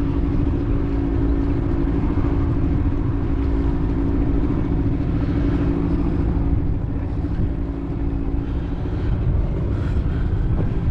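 A boat's outboard motor running at a steady speed, a steady hum over a low rumble that eases slightly near the end.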